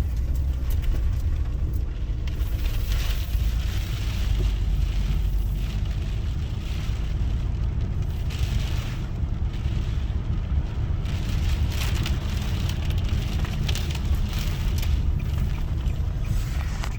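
Car driving, heard from inside the cabin: a steady low road and engine rumble with a hiss that swells and fades.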